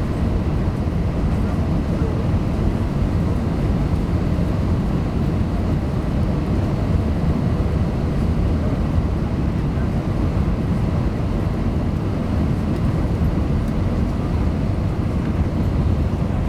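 Steady low rumble of jet engines and rushing air heard from inside an airliner's passenger cabin.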